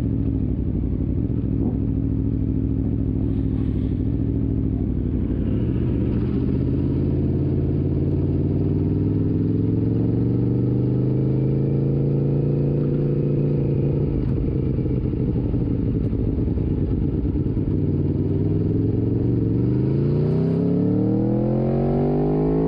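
Motorcycle engine heard onboard, running steadily at first, then pulling away with its pitch rising, dropping suddenly at a gear change a little past halfway, and rising again near the end as the bike accelerates.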